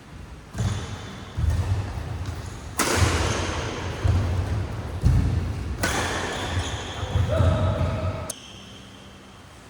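A badminton rally: players' feet thumping on the hall's court floor, with racket strikes on the shuttlecock and short shoe squeaks. The action stops about eight seconds in.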